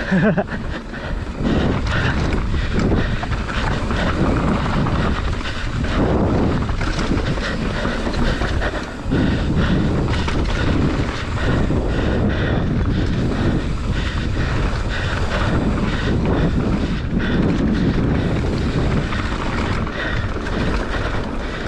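Mountain bike descending a rough trail: wind buffeting the microphone, tyres rumbling over the dirt and rock, and the bike rattling and knocking over the bumps.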